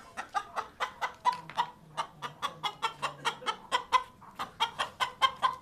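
Naked Neck chicken clucking in a rapid, even run of short calls, about four or five a second.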